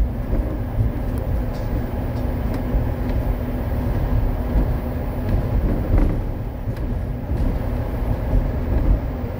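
Wolmi Sea Train, a small elevated electric tourist train, running along its track as heard from inside the car: a steady low rumble with a constant low hum and a few faint clicks.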